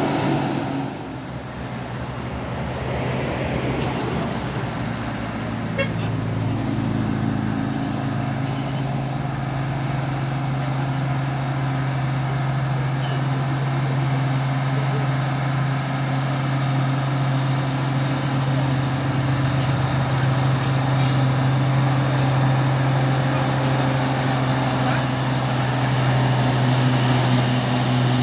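Heavy truck's diesel engine running steadily under load, a low steady drone that dips briefly about a second in and then slowly grows louder.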